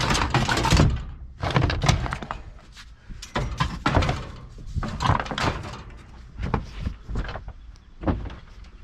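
Heavy thunks and knocks of sheet-metal household appliances being shifted and stacked, about one impact a second with rattling between.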